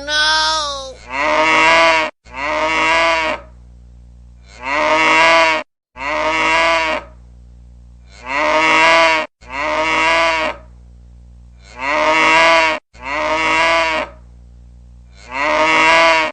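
Cow mooing over and over as a looped ringtone sound effect: about nine calls of a second or so each, mostly coming in pairs.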